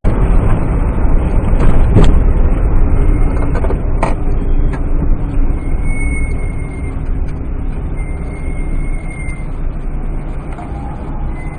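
Steady engine and road noise of a moving vehicle, picked up by a dashcam microphone, with a sharp knock about two seconds in and another about four seconds in.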